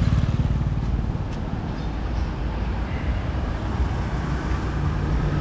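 Motorbike traffic on a city street: small engines running past, loudest in the first second, then a steady traffic hum.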